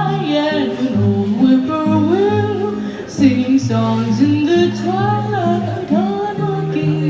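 A singer performing a country waltz-time song with band accompaniment: a sung melody with vibrato over plucked guitar and a walking bass.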